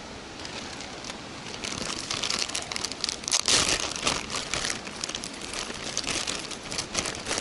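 Crinkly rustling and crackling of something being handled close to the microphone, with many small irregular crackles, starting about a second and a half in.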